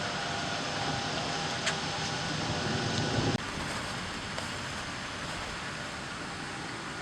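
Steady running noise of a vehicle heard from inside, with a low rumble that cuts off suddenly about three seconds in, leaving a quieter steady hiss.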